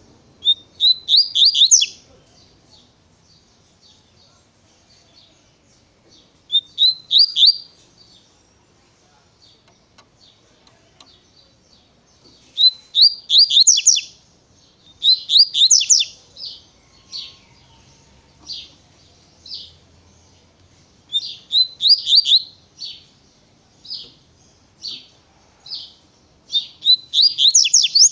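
Double-collared seedeater (coleiro) singing its 'tui-tui' style song: about six quick phrases of rapid, high sweeping notes, separated by pauses and by single spaced chirps.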